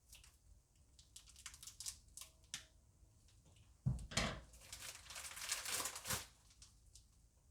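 Plastic bag crinkling and rustling as it is handled, with scattered small crinkles and then a thump about four seconds in followed by about two seconds of louder crinkling.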